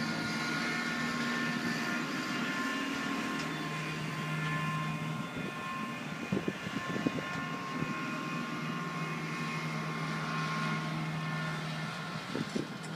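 Engine of a turf machine running steadily as it brushes top-dressing sand into the holes of a freshly cored golf green. Its low hum fades and comes back a few times, with a few knocks in the middle.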